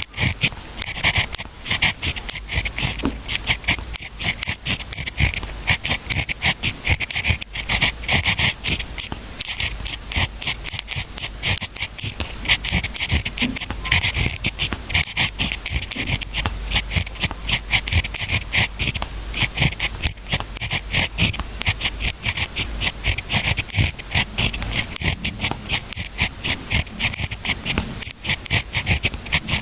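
Pen writing on paper: a quick, unbroken run of short scratchy strokes, several a second.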